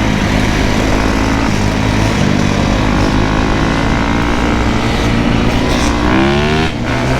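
Motorcycle engine running steadily under way, then revving up in a rising pitch about six seconds in, dropping back and climbing again near the end.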